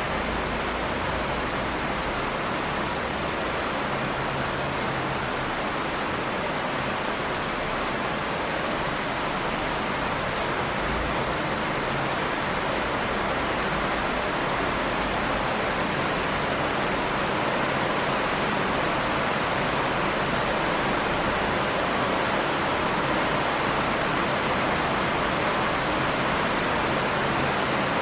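Steady, dense rain: an even hiss of many drops with no single impacts standing out.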